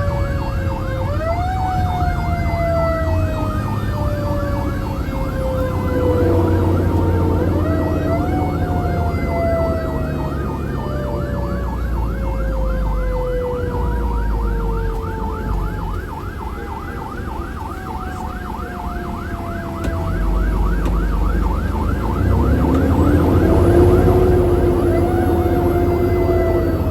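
Fire engine running code with its sirens: a wailing tone that climbs quickly and slides slowly down, repeating every six or seven seconds, over a rapid yelping warble, with the truck's engine rumbling underneath. A new tone rises and holds about three-quarters of the way through.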